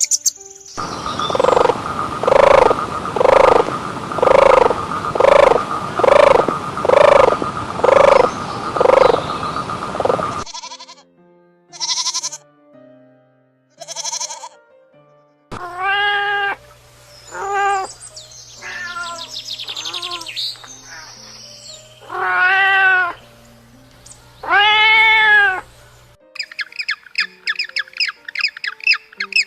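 A string of different animal calls, one clip after another: first a regular series of about a dozen calls, then a few short high cries, then several longer rising-and-falling calls, with rapid chirping near the end, over background music.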